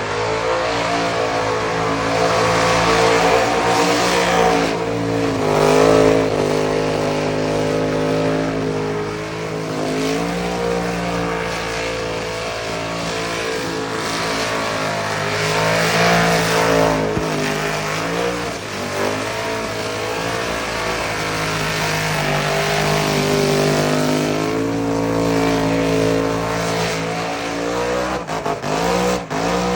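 Truck engine revving hard during a burnout, its pitch rising and falling again and again at high revs, over a steady hiss from the spinning tyres.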